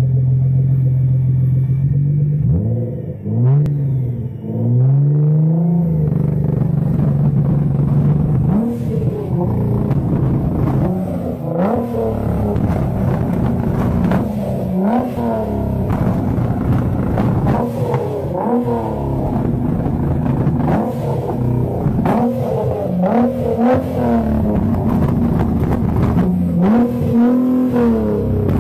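Sports car with straight-pipe exhaust idling, then revved again and again in short blips about every two seconds, with popping and crackling from the exhaust as it shoots flames.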